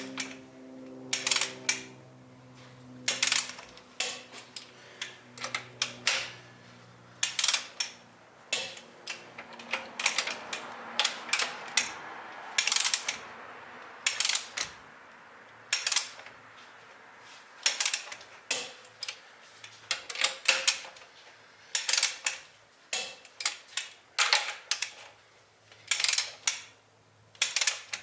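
Ratcheting torque wrench clicking in short irregular bursts, a few strokes at a time with pauses, as the cylinder head studs of a Honda D16 engine are tightened on the final torque pass.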